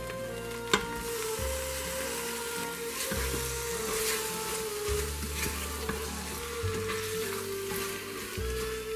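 Chopped tomato and meat sizzling in an Instant Pot's stainless steel inner pot on the sauté setting, stirred with a spatula, with a sharp knock about a second in. Background music plays underneath.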